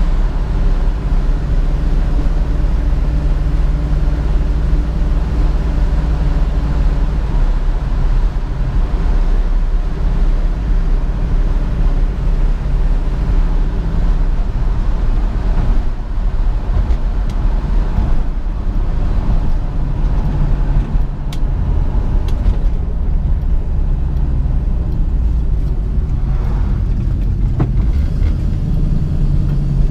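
1967 Ford Mustang's 289 V8 running steadily while driving, heard over road and wind noise, the engine note easing and picking up again a few times.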